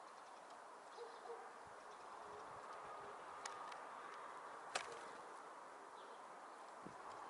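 Faint, scattered calls of small songbirds at a winter feeder over a steady outdoor hiss, with two sharp clicks, the second and louder about five seconds in.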